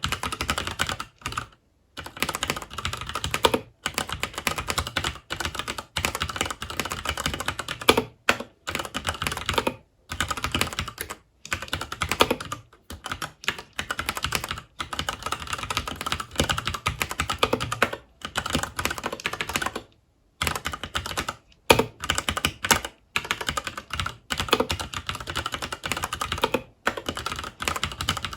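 Continuous typing on a FILCO Majestouch 2 Hakua tenkeyless mechanical keyboard with Cherry MX Brown switches, a rapid run of keystrokes broken by short pauses every second or two.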